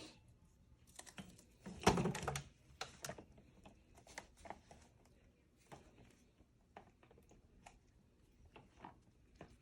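Irregular light clicks and taps of small objects being handled up close, with a louder clattering burst about two seconds in.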